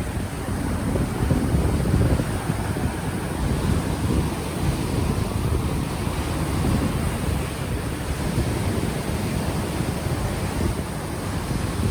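Gentle ocean waves washing ashore, with wind buffeting the unshielded microphone as a low rumble.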